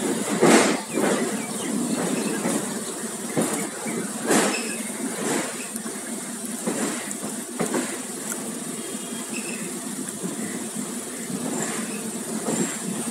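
Passenger train coach running on rails, its wheels knocking irregularly over rail joints and points above a steady rolling rumble, with a run of knocks in the first half.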